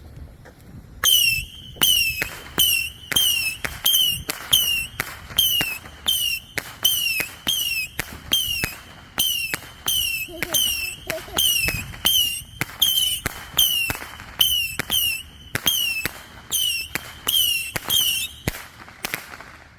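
A firework going off in a rapid string of short whistling pops, about two a second, each pop a brief whistle that drops slightly in pitch. It starts about a second in and stops shortly before the end.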